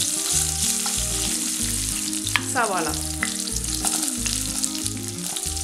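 Oil sizzling in a wok as ginger, garlic, green chillies and cumin seeds fry, with a spoon stirring and scraping the pan. Chopped onion is tipped in from a plate partway through.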